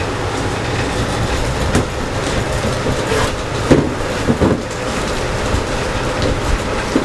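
A woodworking power tool running steadily with a rattling rumble, with a few sharp knocks around the middle.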